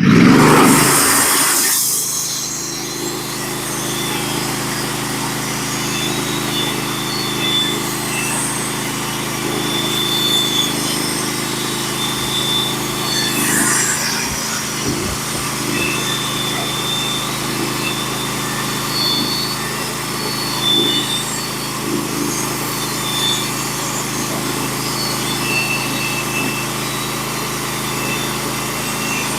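Norwood HD36 portable band sawmill's engine rising sharply in the first two seconds, then running steadily under load as the band blade saws a board off a pitch pine log.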